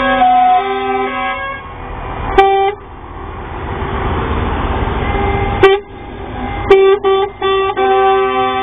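Lorry air horns sounding: a stepped multi-note horn tune at the start, short blasts about two and a half and five and a half seconds in, then a quick run of toots near the end before the tune resumes. Between the blasts a passing lorry's engine rumbles and builds.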